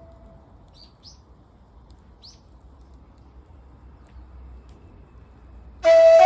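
A bird chirps twice, two short rising calls about a second apart, over faint outdoor background noise. Music comes in near the end.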